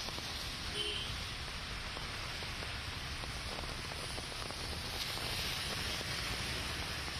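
Heavy rain falling steadily, a continuous hiss with a low rumble underneath.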